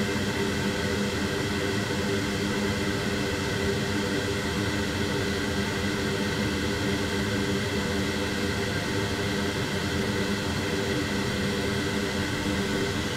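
A small electric blower running steadily with a whirring hiss and a low hum, with a few faint steady whining tones on top.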